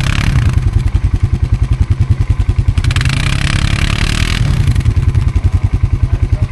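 ATV engine idling with a steady pulsing beat. About three seconds in, another ATV stuck in deep snow revs for about a second and a half, with a rising engine note and a rush of noise, before settling back.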